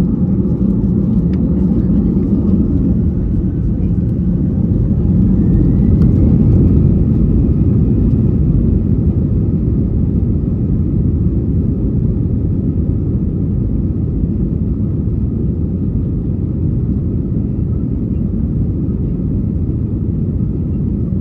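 Airbus A320 takeoff heard from inside the cabin: engines at takeoff power and a deep, steady rumble. A faint rising whine climbs for the first several seconds, and the noise is loudest about six seconds in before easing a little.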